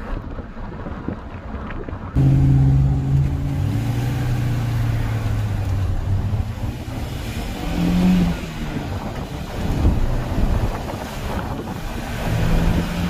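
A Volkswagen Jetta wagon's engine heard from inside the cabin as the car accelerates away, over road and wind noise. About two seconds in it gets suddenly louder, and its pitch dips a couple of seconds later and shifts again further on. The car gains speed weakly, 'as gutless as they come'.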